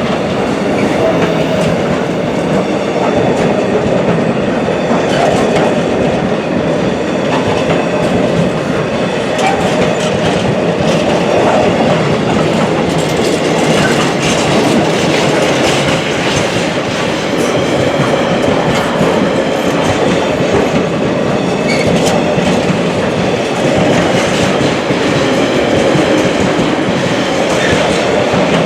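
A train rolling past steadily, with a continuous rumble and wheels clattering over the rail joints.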